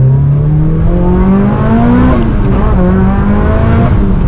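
Mitsubishi Lancer Evolution VII's turbocharged 4G63T four-cylinder, tuned to about 600 hp on over 2 bar of boost with alcohol injection, accelerating hard, heard from inside the cabin. The revs climb with a rising high whine, fall sharply about two seconds in, climb again and fall near the end.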